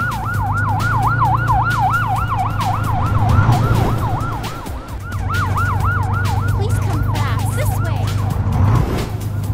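Emergency vehicle siren in a fast yelp, about four rises and falls a second, over a steady low drone; it falters briefly midway and stops near the end.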